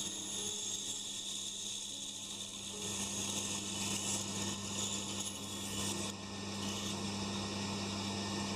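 Pégas scroll band saw running, its narrow blade cutting through a thick wooden block: a steady motor hum under the hiss and rasp of the cut.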